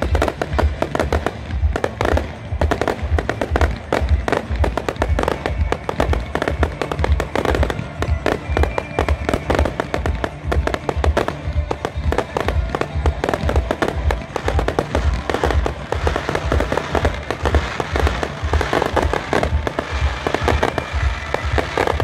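Fireworks going off in a dense, continuous string of bangs and crackles, heard together with background music.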